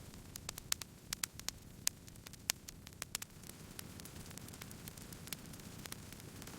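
Wood fire burning, with irregular sharp crackles and pops over a low steady hiss; the crackles come thickest in the first couple of seconds.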